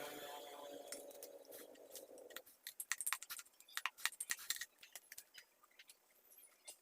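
Small metal parts and tools clinking and tapping in quick succession while a mini chainsaw is cleaned, after a low wavering hum that stops about two seconds in.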